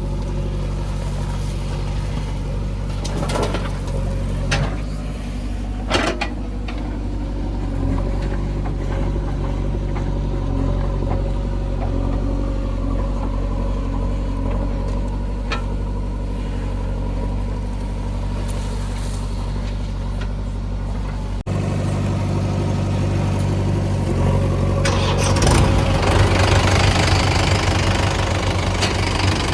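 Heavy diesel engine running steadily, with a few short knocks in the first part. About two-thirds of the way through, the sound cuts abruptly to a louder, rougher engine that grows stronger near the end.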